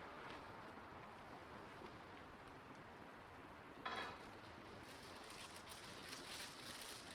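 Wood fire burning quietly with faint crackling, a short louder sound about four seconds in, and a run of small crackles near the end.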